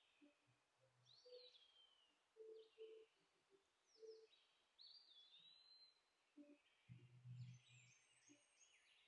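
Near silence with faint birdsong: scattered short chirps and whistled glides, with a brief low murmur about seven seconds in.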